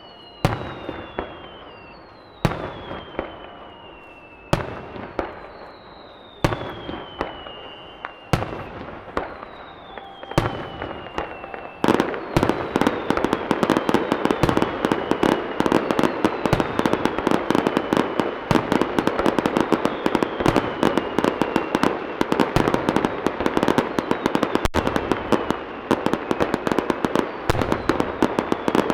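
Aerial firework shells bursting about every two seconds, each bang followed by a falling whistle. About twelve seconds in, a dense rapid-fire barrage of bangs and crackle takes over and keeps going.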